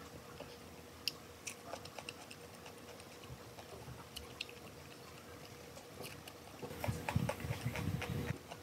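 Close-up chewing of a mouthful of raw vegetable salad, with scattered small clicks. It grows louder and busier about seven seconds in.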